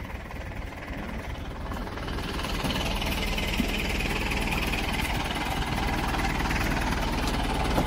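Fire engine's engine running with a fast, even pulsing rumble, growing slowly louder over the first few seconds and then holding steady.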